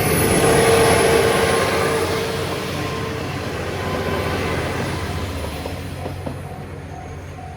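A diesel railcar passing over a level crossing: loudest about a second in, then fading as it moves away. The crossing's warning bell keeps ringing in a steady repeating pattern and stands out again near the end.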